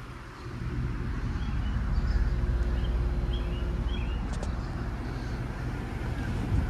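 Outdoor air-conditioner or heat-pump condenser unit running in cooling mode: a steady low compressor hum with fan noise, settling in about half a second in.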